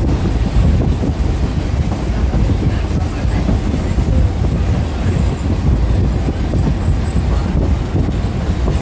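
Passenger train running along the track with a steady low rumble.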